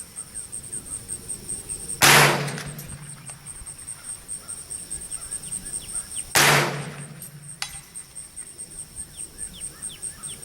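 Two shots from a Smith & Wesson M&P 15-22 .22 LR rifle, about four seconds apart, each a sharp crack that dies away quickly. An insect trills steadily in the background.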